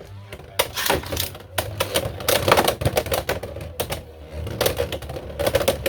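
Two Beyblade X spinning tops, Hells Scythe and Dranzer Spiral, battling in a plastic stadium: rapid, irregular clicks and clacks as they strike each other and the stadium walls, over a steady low spinning hum.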